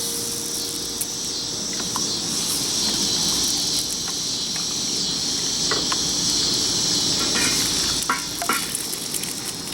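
Egg frying in hot oil in a carbon steel wok, a steady high sizzle with a few light clicks and scrapes, easing off about eight seconds in.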